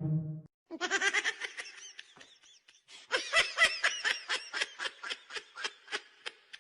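High-pitched human laughter in quick repeated bursts, growing stronger and more rhythmic about halfway through.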